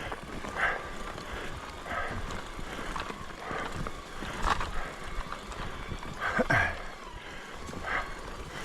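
Mountain bike ridden over a rough forest trail: tyres crunching and the bike rattling over rocks and roots in uneven bursts, with a short falling squeak about six and a half seconds in.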